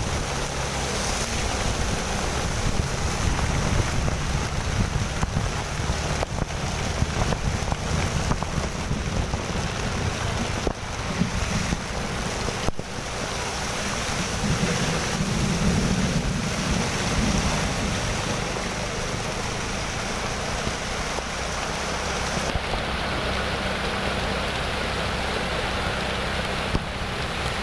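Steady heavy rain, with wind rumbling on the microphone.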